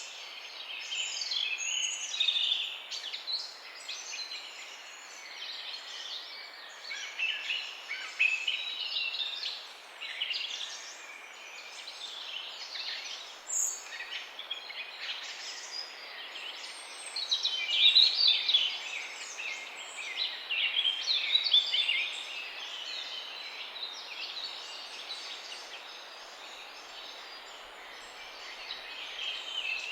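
Dawn chorus of many songbirds chirping and trilling at once over a steady background hiss, busier in a few stretches.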